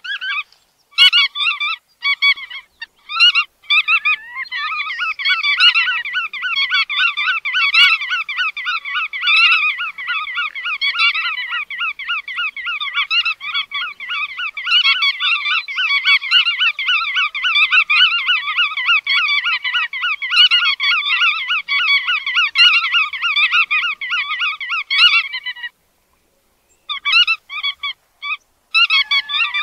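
Bar-tailed godwit calls. A few separate calls come first, then rapid, continuous chattering calls run for about twenty seconds and break off suddenly; after a short pause the calls start again near the end.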